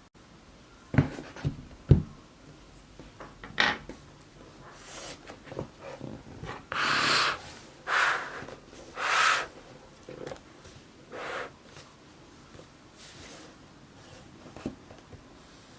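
Objects being handled: a few sharp knocks, then several rubbing or rustling strokes about a second apart.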